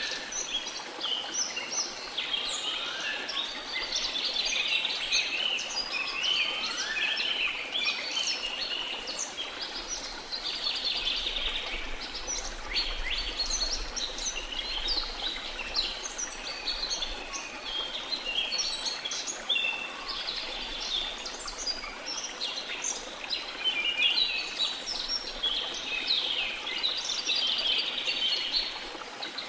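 Tropical rainforest chorus of many birds chirping and singing densely over a steady rush of waterfall water, with a few rising whistled calls in the first several seconds.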